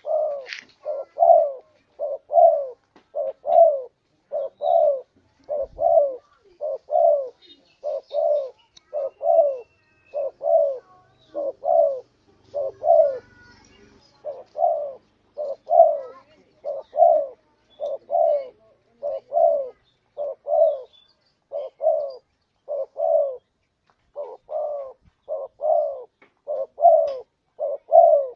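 Spotted dove (tekukur) cooing without a break: a long run of short, low coos, a little more than one a second, in the bird's two-note call.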